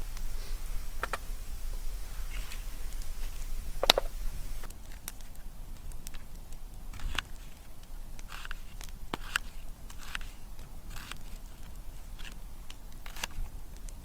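Wood crackling in a campfire: irregular sharp snaps and pops, the loudest about four seconds in, over a steady low rumble.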